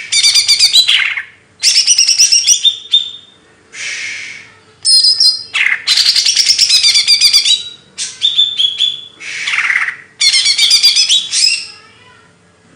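Songbird singing in loud bursts of fast, high chattering notes, about six phrases with short pauses between, and softer hoarse notes in the gaps.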